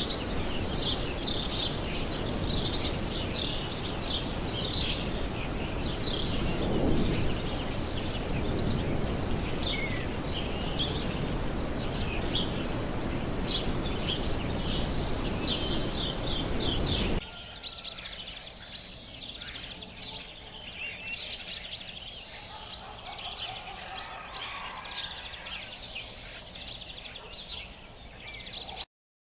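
Many small birds chirping rapidly over a steady rushing background noise. Two-thirds of the way through, the background noise drops away suddenly and softer bird calls continue over a quieter ambience.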